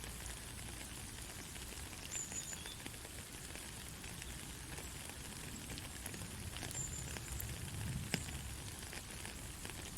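Soft, steady rain falling, a constant hiss dotted with the small ticks of individual drops. Two brief high-pitched chirps rise above it, and a sharper tick stands out about eight seconds in.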